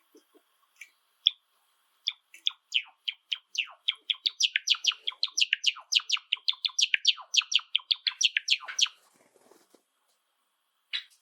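Java sparrow singing: a few single chirps, then a song of rapid, clicking and sharp notes that speeds up and grows louder for about seven seconds before stopping. One more chirp comes near the end.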